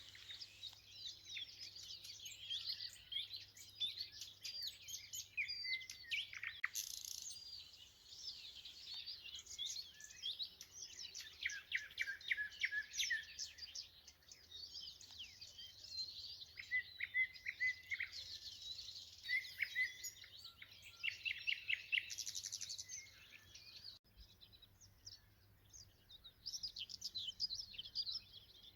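Several songbirds singing at once in a spring chorus: overlapping chirps, whistled phrases and quick runs of repeated notes, one over another throughout.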